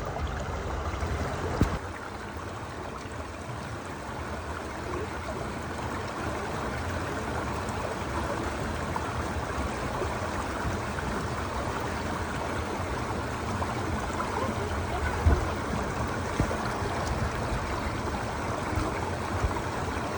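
Steady rush of flowing water, like a stream, with a couple of brief knocks, one about two seconds in and another near the end.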